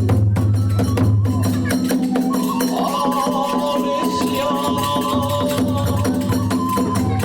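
Kagura hayashi ensemble playing: fast, dense strokes of tebyoshi hand cymbals over drums, with a high wavering melody line joining about two seconds in.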